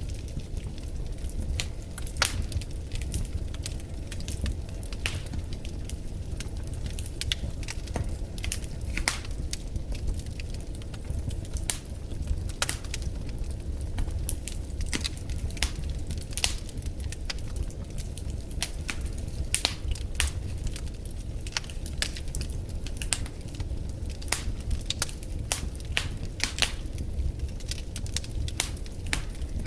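Wood fire burning in a fireplace: a steady low rumble of the flames with many sharp, irregular crackles and pops.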